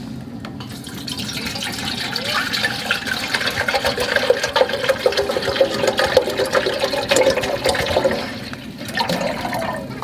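Water running or pouring with splashing, building up over the first couple of seconds, cutting off after about eight seconds, then a short second pour.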